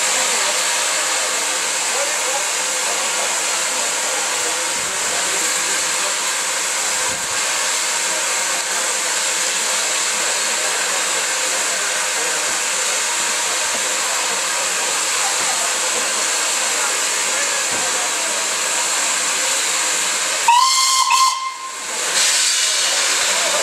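USATC S100 0-6-0 tank locomotive hissing steadily with escaping steam, then one short blast on its steam whistle about twenty seconds in, after which the hiss goes on.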